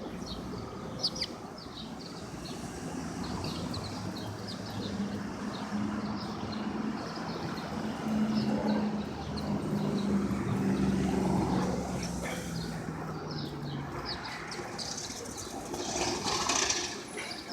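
Small birds chirping in short, repeated calls over city traffic. A vehicle engine's low drone swells up in the middle and fades, and a brief loud hiss comes near the end.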